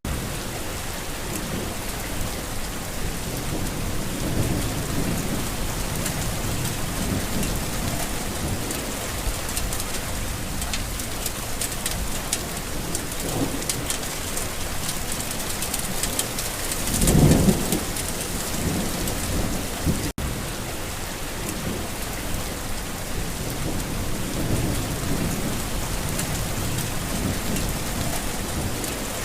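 Steady rain with low rolls of thunder, and one louder thunder rumble a little over halfway through. There is a momentary dropout about twenty seconds in.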